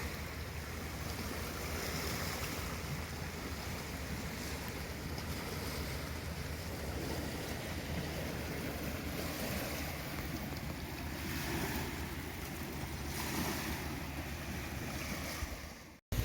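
Wind buffeting the microphone: a steady rushing noise with a low rumble, cutting off abruptly near the end.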